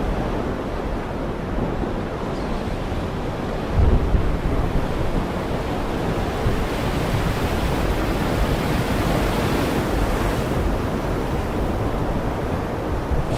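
Heavy rain falling steadily in a dense, even hiss, with a brief low rumble about four seconds in.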